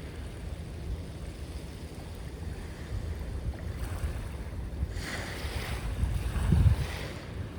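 Sea waves washing onto the shore, with wind buffeting the microphone as a low rumble. A wave surges in about five seconds in and is loudest shortly before the end.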